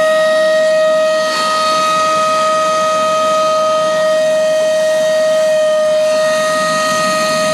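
Vacuum cleaner running steadily, its motor giving a constant high whine over a rush of air.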